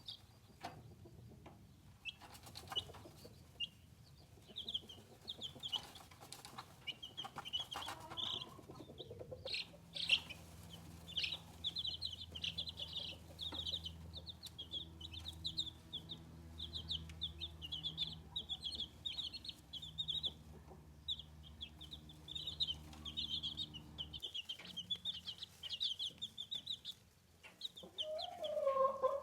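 Newly hatched Bresse chicks peeping: a dense run of short, high chirps that goes on almost without a break. A low steady hum sits under them for much of the middle.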